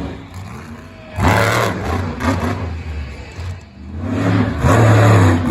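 Monster truck engine revving in bursts: one sharp surge about a second in, easing off, then a longer, louder rev building from about four seconds in.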